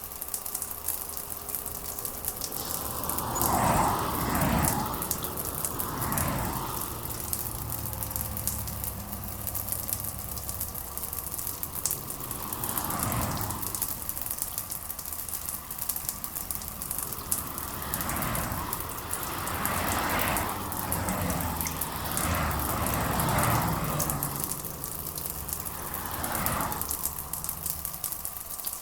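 Steady rain falling, a constant hiss with fine crackle. Deeper swells of sound rise and fade every few seconds.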